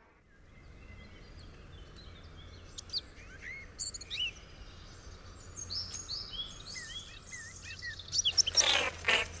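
Birds chirping in short, scattered calls over a faint, steady background hum, as a natural outdoor soundscape. Near the end a louder pitched sound lasts about a second.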